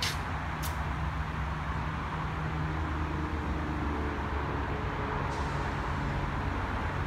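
Amtrak diesel passenger train running at the platform: a steady low engine hum with a few faint steady tones over it. Two short clicks in the first second.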